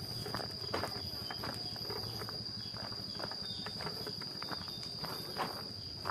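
Footsteps walking along a path, irregular steps about two a second, under a steady high-pitched insect drone.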